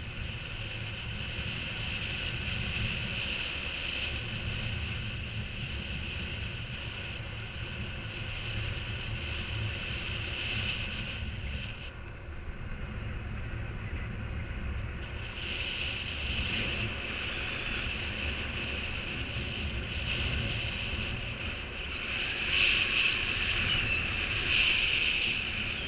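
Wind rushing over the microphone, with a low buffeting rumble and a steady high whistle that drops out about halfway through, comes back a few seconds later and is loudest near the end.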